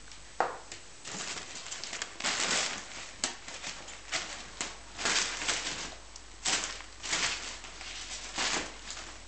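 Irregular rustling and scuffling of a fabric cat play tent as kittens tumble and scramble in and on it, in short bursts with scattered light taps.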